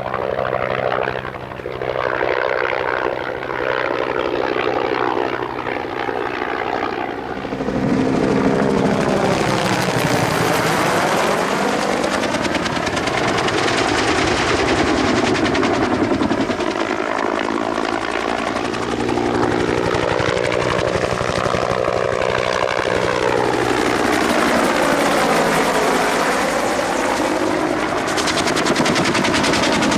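Military helicopter flying display manoeuvres, its rotor and turbine sound growing louder about eight seconds in, with repeated rising and falling shifts in pitch as it swings past and turns.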